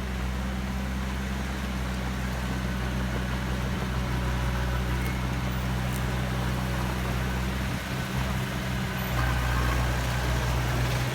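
Diesel engine of a heavy construction machine running steadily, its note shifting about eight seconds in.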